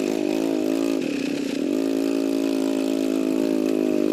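Vehicle engine running steadily, its pitch dipping and recovering briefly about a second in.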